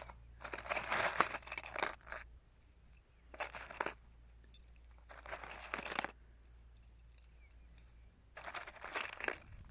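Four short bursts of rustling and clinking from objects being handled, with quiet gaps between them.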